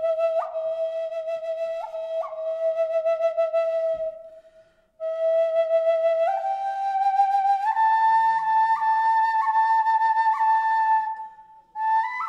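Solo flute playing a slow melody of long held notes ornamented with quick upward grace-note flicks. It breaks off briefly about four seconds in, then steps up to higher held notes, and pauses again briefly near the end.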